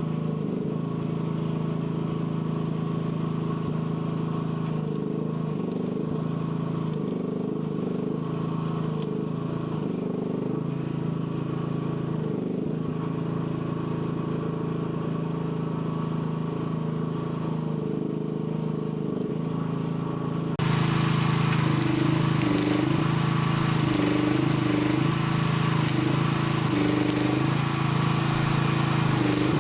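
AGT L12 mini excavator's small engine running steadily, its note dipping and recovering again and again as the hydraulics are worked under load. About two-thirds of the way in the sound suddenly becomes louder and brighter.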